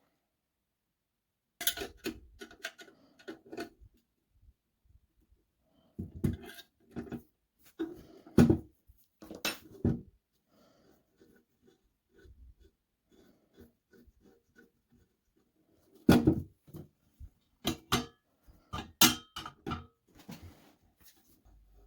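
Clinks and knocks of small metal parts being handled, in three groups with quiet gaps between.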